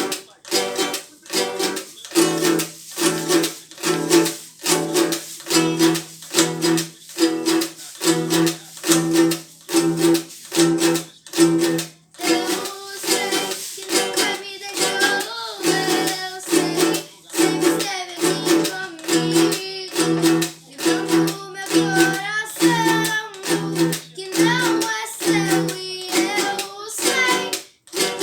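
Strummed acoustic string instrument playing a steady rhythm, about two strums a second, alone for roughly the first twelve seconds; then a voice starts singing over it.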